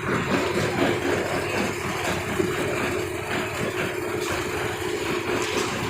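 Engine of a concrete mixer lift machine running steadily, with a constant hum and a dense mechanical clatter.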